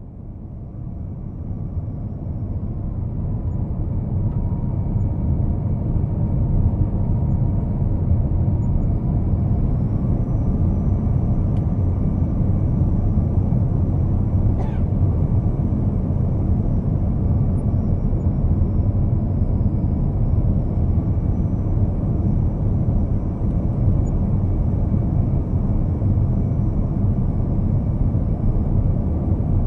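Steady low rumble of a travelling vehicle, building up over the first few seconds and then holding, with a faint high whine that rises in pitch about a third of the way in.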